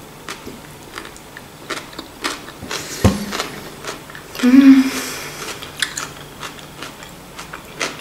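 A person chewing a mouthful of oil-dressed vegetable salad, with many small wet mouth clicks and smacks. About halfway through comes a brief, louder throaty sound from the eater, and a low thump a little before it.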